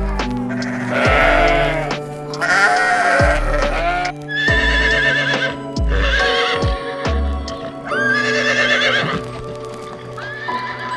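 Several wavering bleats from farm livestock, one after another, over background music with a steady bass pulse.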